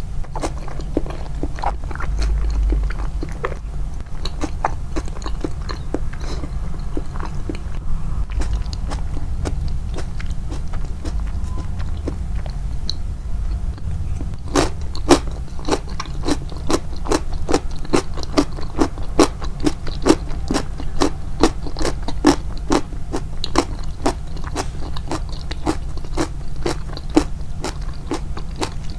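Close-miked chewing of crunchy rice-bran pickled vegetables, crisp crunches that are irregular at first and become a steady rhythm of about two a second from about halfway through.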